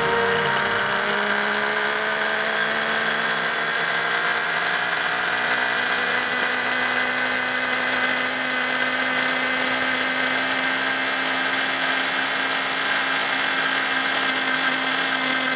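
Reedy VR-ST .21 two-stroke nitro engine running at high rpm on a flywheel dyno. It makes a steady, high-pitched whine whose pitch climbs slowly over the first several seconds and then holds.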